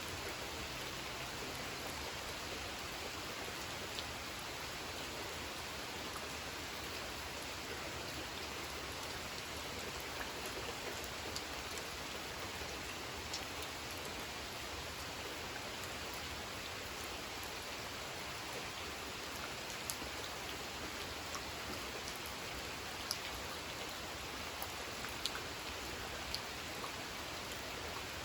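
Steady gentle rain falling on a pond, an even hiss with scattered sharper drip ticks, more of them in the second half.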